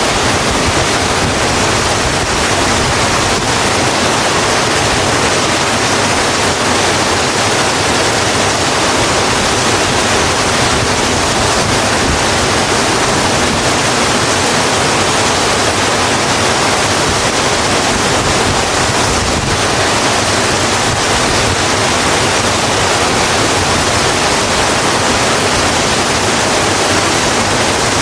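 Steady, heavy rain, an even hiss with no separate drops or breaks.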